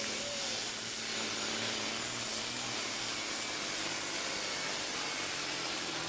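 Engine of a pulling truck or tractor running hard during a pull, heard as a steady, unbroken noise with a strong hiss.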